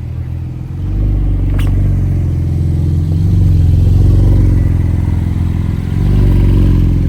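Porsche 911 Turbo S's twin-turbo flat-six running at low revs as the car rolls in, its note swelling and easing a few times. One short click about a second and a half in.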